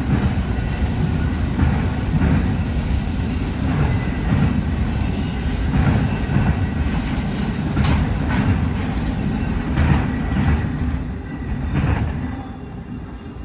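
Amtrak train passing at speed: a steady low rumble of wheels on rail, broken by repeated clicks and knocks as the wheels cross rail joints. It fades away near the end as the last car goes by.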